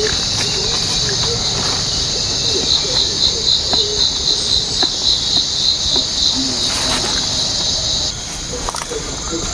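Rainforest insects calling: a loud, high pulsing chorus at about three pulses a second that cuts off suddenly near the end, over a steadier, higher insect drone that carries on.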